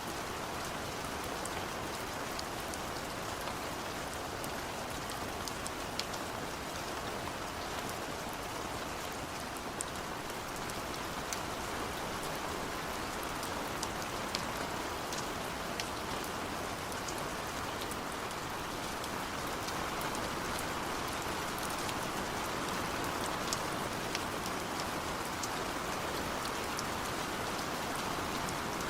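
Recorded rain falling steadily, with scattered sharp drop ticks through it.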